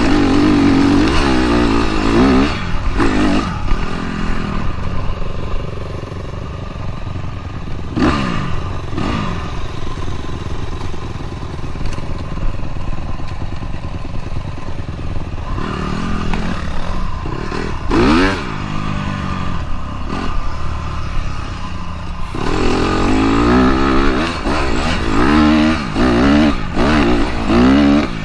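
Dirt bike engine revving up and down again and again while riding, its pitch rising and falling with throttle and gear changes. It is loudest in the first few seconds and again near the end.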